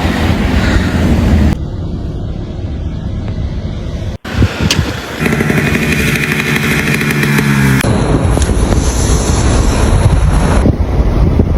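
A string of short outdoor clips joined by abrupt cuts: motor vehicle engines running, with a steady pitched engine sound in the middle, and rough rumbling noise in the other clips.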